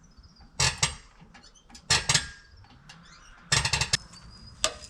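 Rapid metallic clicking and clanking in four short bursts from a log-lifting rig of crane, winch and straps taking the strain of a heavy log.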